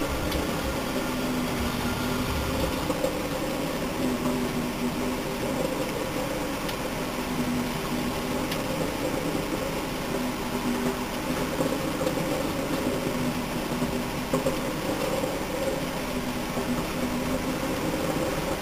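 Old National microwave oven running steadily: the magnetron transformer's hum and the cooling fan.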